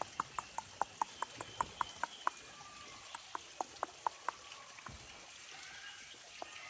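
A person clicking the tongue to call a monkey: a quick run of sharp clicks, about five a second, that slows and fades after about two and a half seconds.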